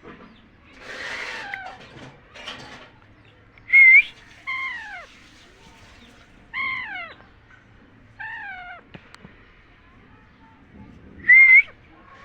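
Alexandrine parakeet calling: two loud, sharp squawks, about four seconds in and near the end, with three falling, drawn-out calls between them and a breathy hiss near the start.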